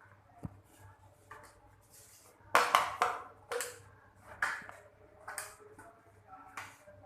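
A bottle being knocked about and bitten by a Lhasa Apso puppy at play: a run of sharp clatters and crinkles, the loudest cluster about two and a half seconds in, then lighter knocks about once a second.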